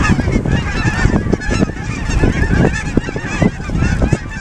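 A large flock of geese calling, many overlapping honks and yelps running together without a break.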